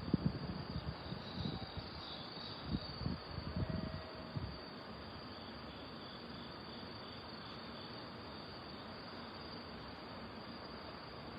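Crickets chirping faintly and steadily on an autumn night. Irregular low thumps during the first four seconds or so.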